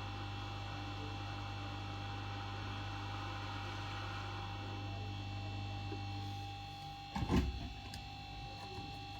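Steady electrical hum with a soft hiss over it; the hiss and the lowest hum fade out about six and a half seconds in, and a brief knock follows about a second later.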